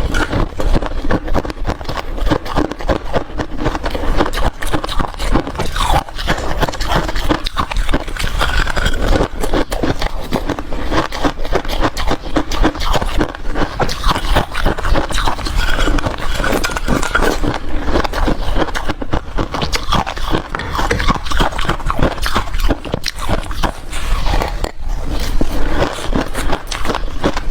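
Ice being chewed, with a dense, continuous run of crunches.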